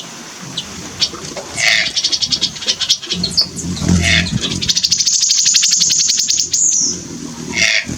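Birds calling: a mix of high chirps and rattling notes, with a fast, high, even trill from about five seconds in that ends in a short downward slur.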